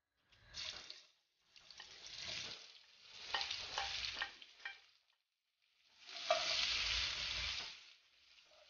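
Sliced shallots sizzling in hot oil in a wok as they are tipped in and stirred with a plastic slotted spatula, in several bursts with short silences between, with a few sharp clicks of the spatula in the middle. The loudest sizzle comes from about six to eight seconds in.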